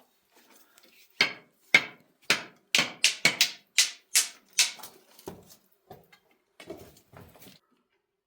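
A run of about nine sharp knocks or blows, roughly two a second, starting about a second in, followed by a few quieter knocks.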